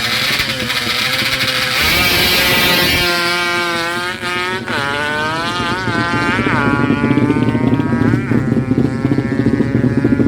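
Honda Karisma motorcycle's single-cylinder four-stroke engine revving: its pitch rises and wavers with the throttle, with quick blips about six and eight seconds in, then holds fairly steady.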